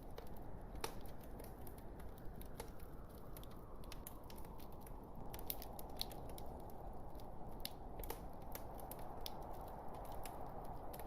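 Wood fire burning in a fireplace: irregular sharp crackles and pops from the logs over a steady low hiss.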